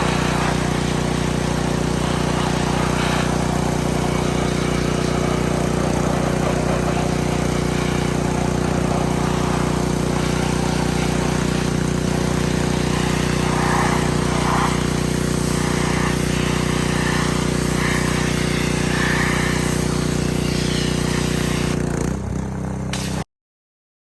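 Pressure washer running steadily: a small engine's even hum under a hiss of spray, ending in an abrupt cut near the end.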